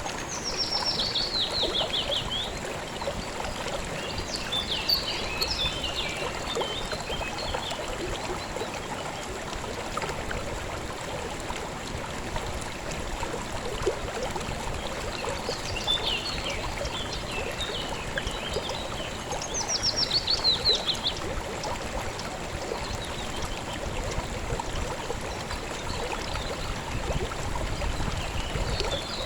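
A river or stream flowing steadily over stones, with small birds singing above it. Twice there is a quick trill that falls in pitch, and between the trills there are bouts of twittering.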